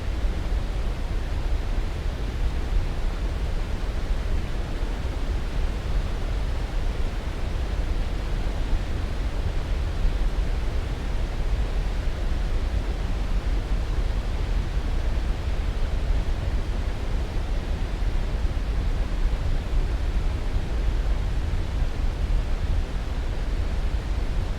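Steady, unchanging rushing noise from a sleep-aid white-noise track, heaviest in the low end and thinning toward the top.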